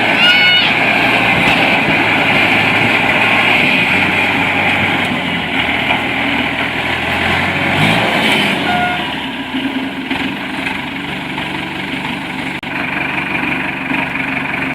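Concrete transit mixer truck's diesel engine running steadily, with a short high squeal at the start; the deep rumble eases off about eight seconds in.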